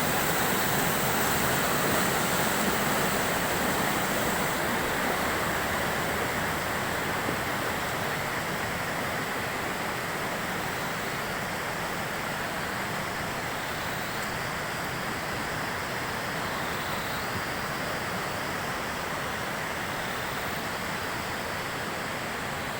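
Steady rush of a mountain river and waterfall, fast water tumbling over rocks, easing slightly in level over the stretch.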